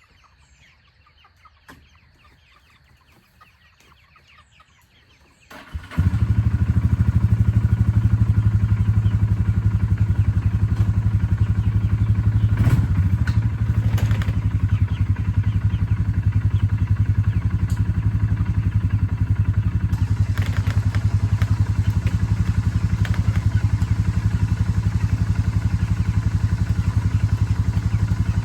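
Chickens clucking faintly, then about six seconds in a small engine starts and runs steadily and loudly for the rest, with a couple of brief knocks partway through.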